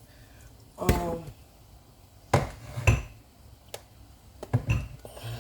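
Kitchen clatter of cookware and seasoning containers: a ringing clink about a second in, then several sharp knocks and taps of containers and utensils being handled and set down.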